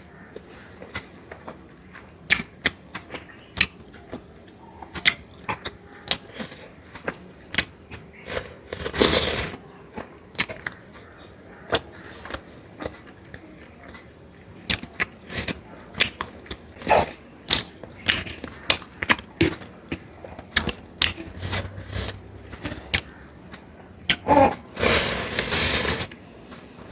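Close-up eating sounds of a person eating curry: irregular wet clicks of chewing and lip smacking, with a longer, louder noisy stretch about nine seconds in and another near the end.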